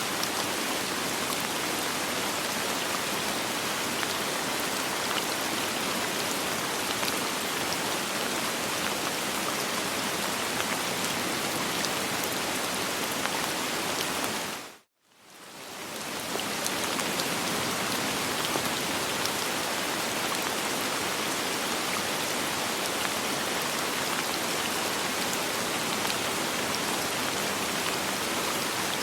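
Steady soft rain without thunder, an even hiss with scattered drop ticks. About halfway through it drops out suddenly to near silence for a moment and fades back in.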